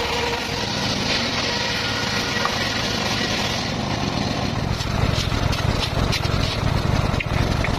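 Circular saw running while sawing petung bamboo: a steady machine drone whose sound changes a little under four seconds in, the higher hiss fading and a heavier low pulsing with scattered ticks taking over.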